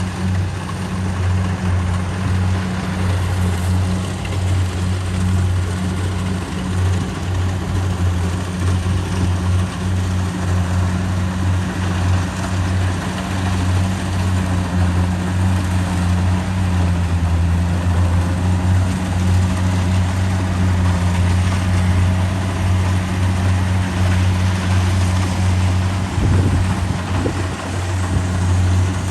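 Kubota DC70 Pro rice combine harvester running steadily, a continuous low engine drone under the rushing noise of its threshing machinery.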